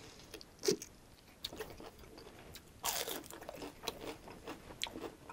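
Close-miked bite and crunch into a crispy fried spring roll about three seconds in, followed by chewing with scattered small mouth clicks. A short wet smack from licking sauce off the fingers comes under a second in.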